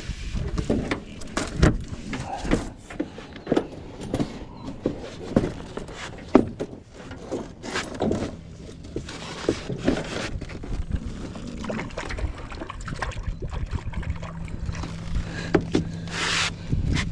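Scattered knocks and clatter of handling in a small aluminium boat. A steady low hum joins about halfway through, and there is a brief rustle near the end.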